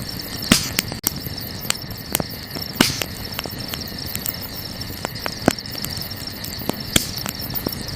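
Wood campfire crackling with scattered sharp pops, the biggest about half a second in, near the middle and near the end, over a steady chirping of crickets.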